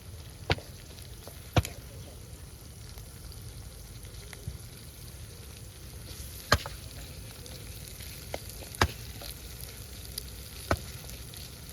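Meat sizzling as it fries in a cooking pot, a steady hiss broken by about five sharp clicks spread through it.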